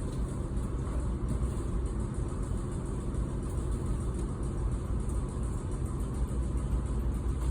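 A ship's engines and machinery running with a steady low drone.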